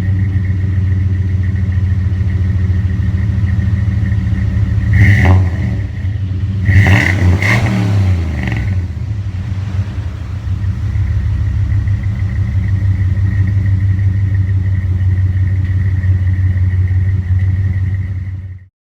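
2003 Dodge 4.7-litre V8 idling through a Flowmaster 40 Series muffler. It is blipped once about five seconds in and revved twice a couple of seconds later, then settles back to a steady idle. The sound cuts off just before the end.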